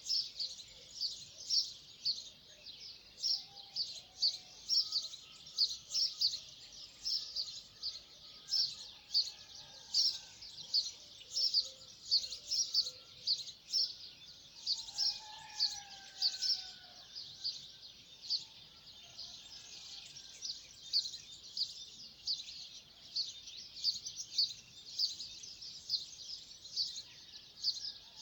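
Birds chirping: a steady run of short, high chirps, about two a second, with fainter, lower, gliding calls behind them.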